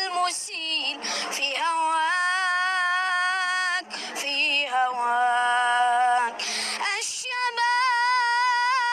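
A single high voice singing the national anthem, holding long notes with a gentle vibrato, with short breaths between phrases.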